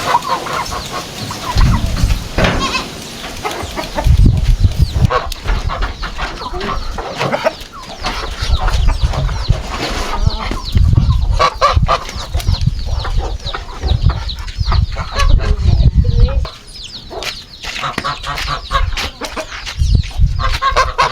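Domestic chickens clucking, with many short calls scattered through.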